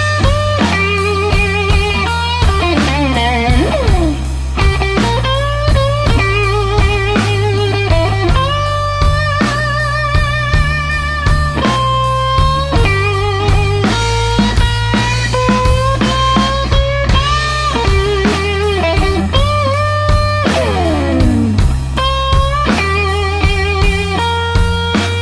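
Electric blues band playing a slow blues instrumental: a lead electric guitar with wide vibrato and string bends over bass and drum kit. There is a long slide down in pitch about twenty seconds in.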